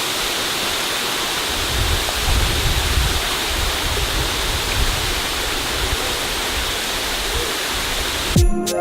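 Waterfall and cascading water rushing steadily; music cuts in near the end.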